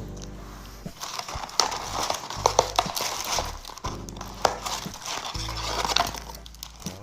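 Close-miked chewing and crunching of food, with irregular crisp crackles, over background music with a low bass line.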